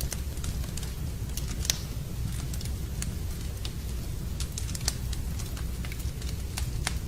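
Wood campfire crackling: irregular sharp pops and snaps, one louder snap about two seconds in, over a steady low rumble.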